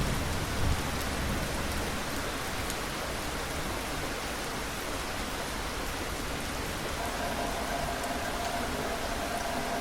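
Steady rain falling on a surface, with the tail of a low thunder rumble dying away in the first second. A faint steady tone joins the rain about seven seconds in.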